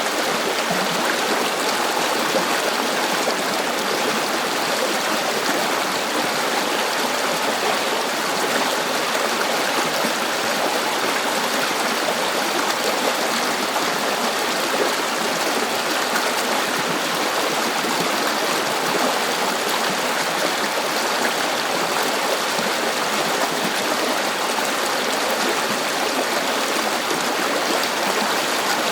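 River water flowing and babbling steadily, a constant rushing hiss with no breaks.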